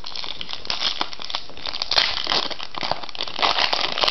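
Foil booster pack wrapper crinkling as it is torn open, in irregular crackling bursts, loudest about two seconds in and again near the end.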